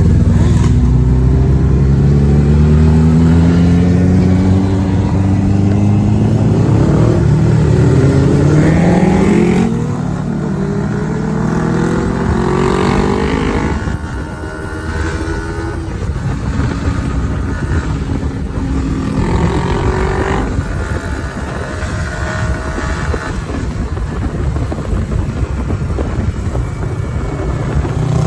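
Kawasaki ZX-10R's inline-four engine on its stock exhaust, accelerating hard through the gears. The pitch climbs with each pull and drops back at every upshift, several times over. It is loudest in the first pulls, then lower for the rest.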